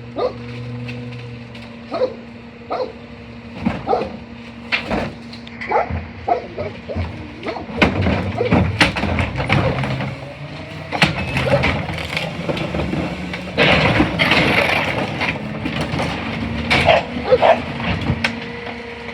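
CNG-powered rear-loader garbage truck running with a steady engine hum, while a dog barks repeatedly in short sharp bursts over it. A louder burst of hissing comes about two-thirds of the way through.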